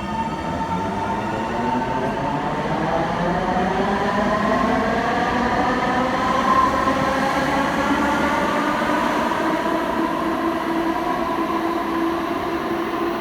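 Alstom Citadis Spirit light-rail train accelerating from a stop: its traction motors whine in several tones that rise in pitch together and level off near the end, over the rumble of the car on the rails.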